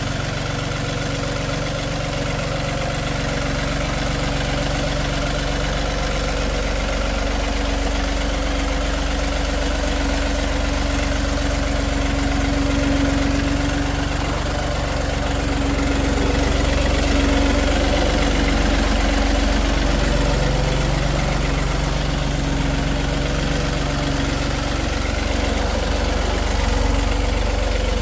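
Tractor engine running steadily, with slow slight rises and falls in pitch and loudness as the load or throttle changes.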